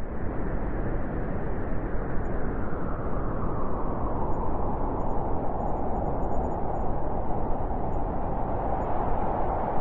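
Blizzard wind blowing hard and steadily, a full rushing noise with a howl in the middle of its range that grows stronger about four seconds in.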